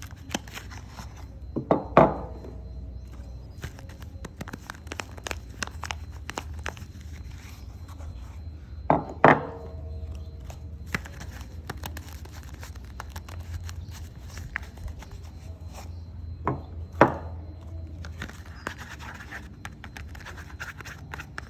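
Soap being unwrapped and cut: three double knocks about seven seconds apart, each leaving a short ring, with quieter scratching, clicking and wrapper crinkling between them.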